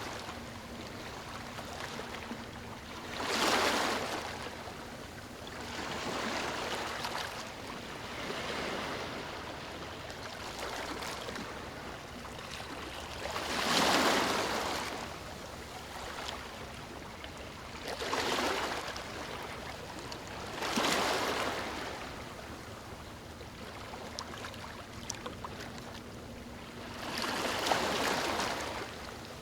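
Ocean waves breaking and washing up a beach: a steady wash of surf that swells into a louder breaker every few seconds, about six in all, the strongest near the middle.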